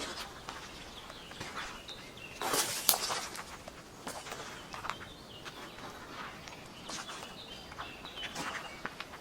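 Footsteps rustling and crunching through leaves and twigs on a forest floor, uneven, with a louder burst of crunching about two and a half seconds in. Birds chirp briefly now and then.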